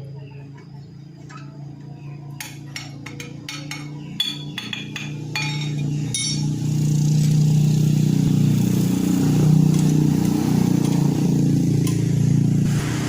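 A quick run of light metallic clinks and taps from work on a motorcycle exhaust pipe, over a steady low hum that gets louder about halfway through.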